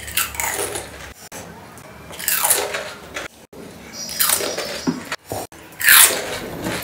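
Panipuri (golgappa) eaten whole, the crisp hollow shells crunching in the mouth, close to the microphone. Four mouthfuls come about two seconds apart, and the last is the loudest.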